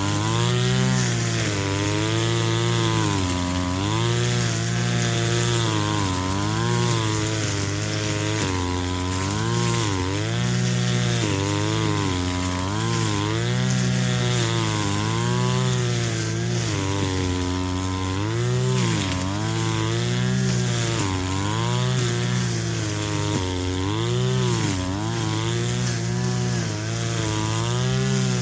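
Two-stroke brush cutter running at full throttle, its engine pitch dipping and recovering every second or two as the blade cuts through grass.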